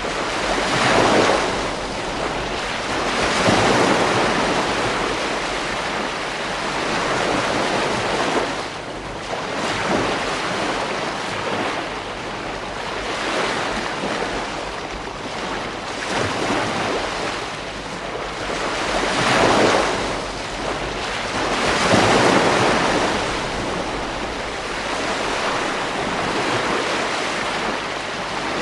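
Ocean waves breaking on a beach, the surf rising and falling in a slow, irregular rhythm of swells every few seconds, with wind on the microphone underneath.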